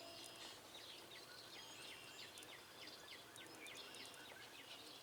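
Near silence with faint background bird chirping: many short, quick chirps repeating throughout.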